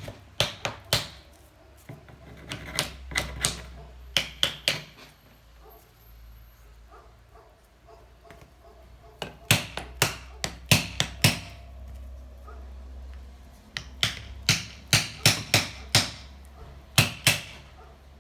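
A hammer tapping on metal in quick runs of sharp blows with short pauses between them, typical of working at a seized cylinder and piston on a small motorcycle engine to free them.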